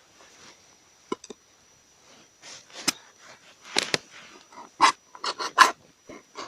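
Two sharp clicks, then a run of short scraping and knocking strokes that come louder and faster over the last few seconds.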